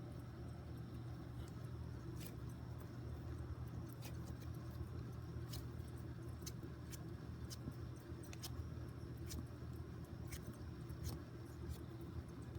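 CD player running with a steady low hum, broken by irregular sharp clicks every half second to a second or so, typical of a skipping disc.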